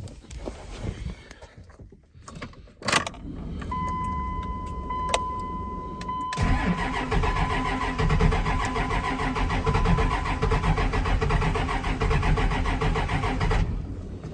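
A thump about three seconds in, then a steady warning chime tone, then a 12-valve Cummins 5.9 L inline-six diesel cranking over hard for about seven seconds on a cold start, reluctant to fire in the cold, until the cranking stops.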